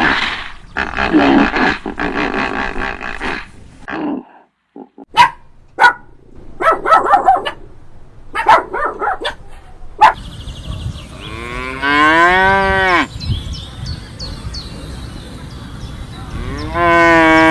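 A cow mooing: two long, drawn-out moos, the first about two-thirds of the way through and the second starting near the end. Earlier there are shorter animal calls and a few sharp clicks or knocks.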